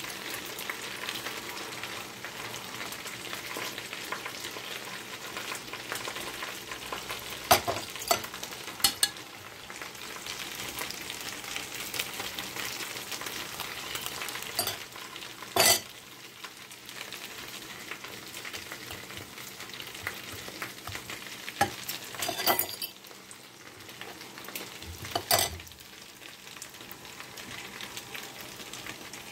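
Chicken pieces frying in hot oil, a steady sizzle, with a few sharp clicks and knocks of a fork against an enamel bowl.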